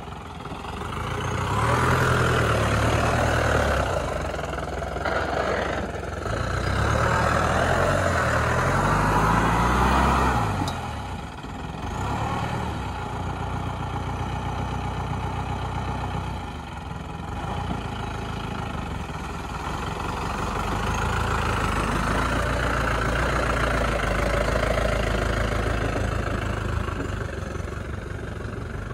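Jeep engine revving up and down in several surges over the first ten seconds or so, then running more steadily at lower revs, as the jeep is driven off-road through mud.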